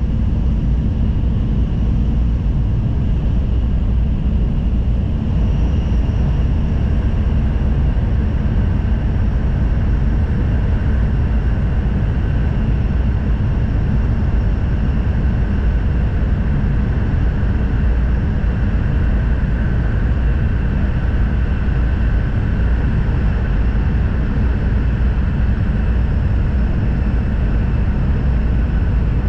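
N700-series Shinkansen running, heard inside the passenger cabin: a steady, loud low rumble of running noise. A faint high whine sits on top and grows clearer about five seconds in.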